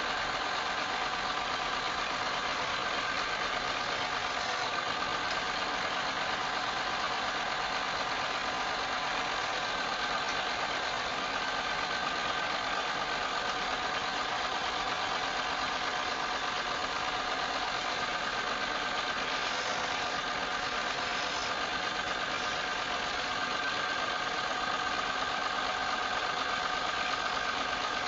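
Wood lathe running steadily, a constant motor whine with a few steady tones over a even rushing noise.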